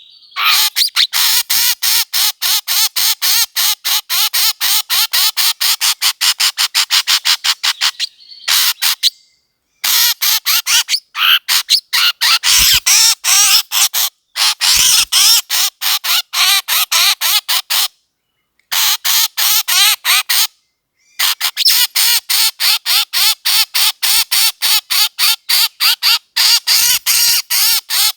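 A bird calling in rapid, harsh repeated notes, about five a second, in long runs broken by short pauses: a bird call recording of the kind played to lure birds in for hunting.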